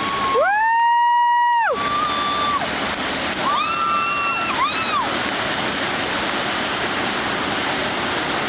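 Whitewater of the Colorado River rushing steadily, with a long high-pitched shout about half a second in and two shorter calls around four seconds.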